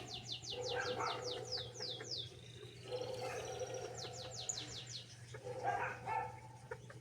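Small cage birds singing and chirping: a run of quick falling high notes about four to the second, a second shorter run about four seconds in, and scattered lower chirps between.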